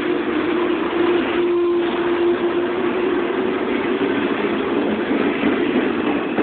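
A JNR 485 series electric limited express train pulling out and rolling past close by, its cars running by in a steady rush of wheel and running noise. A steady hum fades out about two and a half seconds in.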